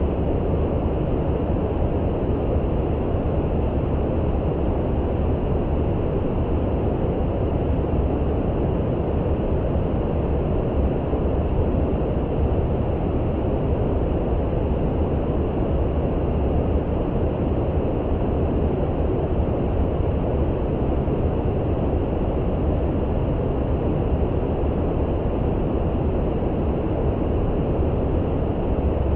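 Steady brown noise: an even, unbroken hiss weighted toward the bass, with no changes or events.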